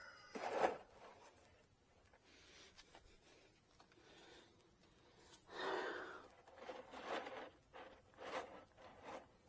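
Rustling and scraping from things being handled, in short bursts. The loudest bursts come about half a second in and around six seconds in, with smaller ones near the end.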